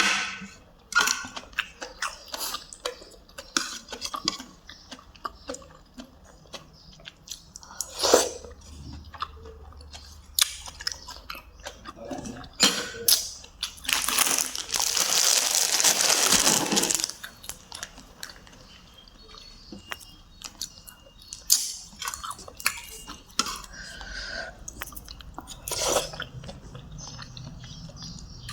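Close-up eating sounds of a person chewing and crunching mouthfuls of Isan om stew with meat, with frequent short crunches and mouth clicks. About halfway through there is a loud hissing stretch lasting around three seconds.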